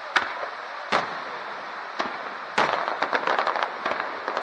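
Fireworks exploding: three separate sharp bangs in the first two seconds, then from about two and a half seconds in a dense run of quick crackling pops from a gold crackling shell.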